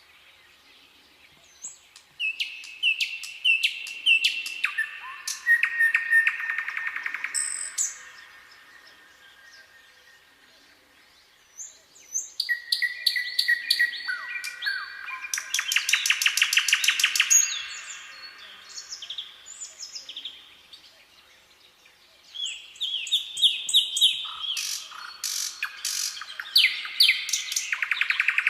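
Songbirds singing in three bouts about ten seconds apart, each a run of quick high notes sliding downward and rapid trills. Between the bouts it is quiet.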